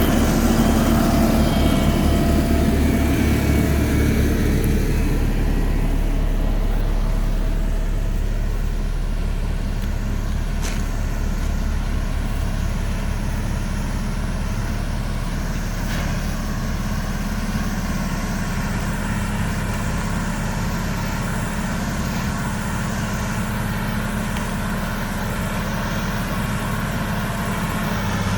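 The engine of a heavy road-works vehicle running steadily, easing a little quieter after the first several seconds.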